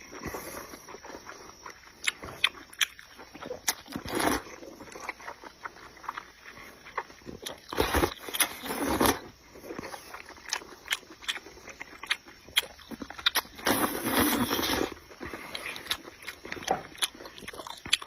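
Close-up eating sounds of sour-spicy sweet potato noodle sheets: wet chewing and smacking clicks, with longer slurps about 4 s, 8 s and 14 s in.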